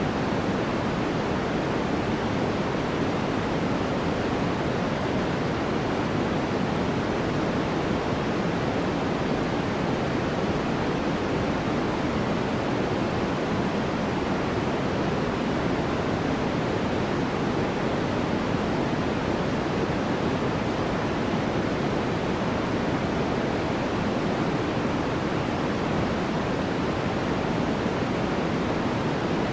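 Steady, unchanging sleep noise: an even rushing hiss that is fuller in the low-middle tones than in the highs.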